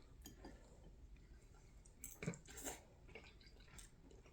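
Near silence with faint eating sounds: quiet chewing and a couple of soft clicks a little over two seconds in.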